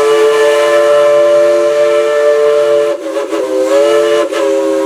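Multi-chime steam whistle of Dollywood Express steam locomotive No. 70 sounding a chord: one long blast that breaks off about three seconds in, then sounds again with a short break just after.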